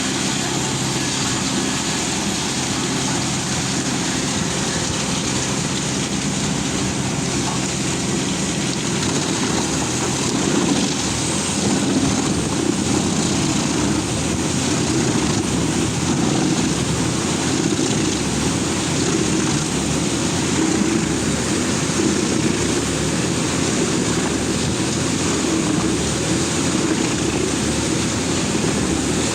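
A large wood chipper running steadily, with engine and machine noise at a constant loud level throughout.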